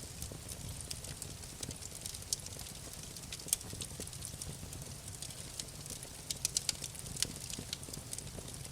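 Wood fire crackling in a fireplace: irregular sharp pops and snaps over a steady low rumble, with a quick run of louder pops a little past the middle.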